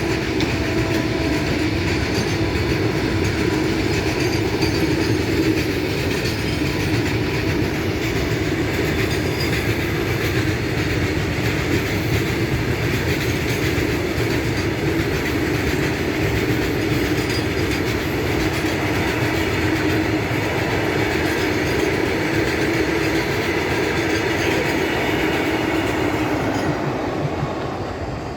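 Coal goods train's wagons rolling past, wheels clattering steadily over the rails; the sound drops off near the end.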